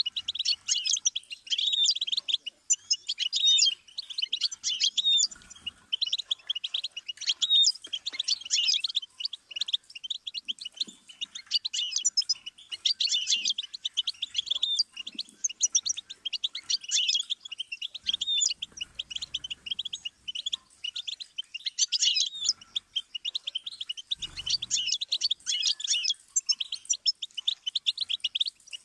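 Goldfinch singing: long runs of rapid, high twittering song phrases, broken by short pauses.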